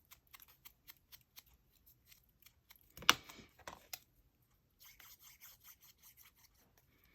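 Faint scissors snipping and paper rustling, with a brief louder rustle of paper about three seconds in.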